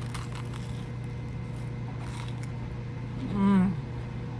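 Person chewing a bite of bread, faint mouth clicks over a steady low hum, with a short hummed 'mmm' of enjoyment about three and a half seconds in.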